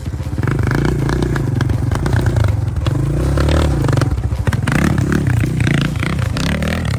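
Enduro motorcycle engine revving hard and unevenly, the pitch rising and falling as the throttle is worked, with scattered knocks. The revving comes from working the bike up a steep quarry climb while a stuck bike is being hauled out.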